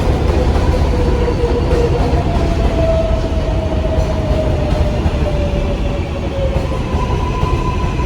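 R188 subway car running between stations: a steady low rumble of wheels on rail with the whine of the propulsion motors, one tone gliding up then slowly sinking, and a higher steady whine coming in near the end.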